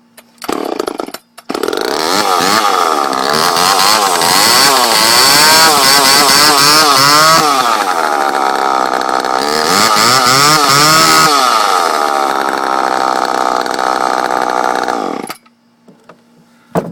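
Homelite Super Mini two-stroke chainsaw engine catching about a second and a half in after a short burst, then running with the throttle revved up and down twice before it is shut off suddenly near the end. It runs on fresh gas after a carb clean.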